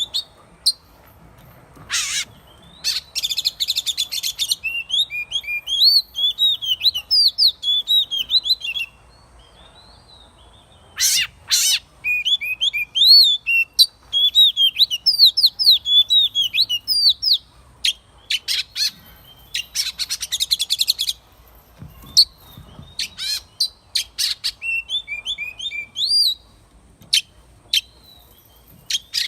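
Oriental magpie-robin singing: runs of quick whistled notes that slide up and down, broken by harsh raspy notes, with a pause of about two seconds a third of the way in.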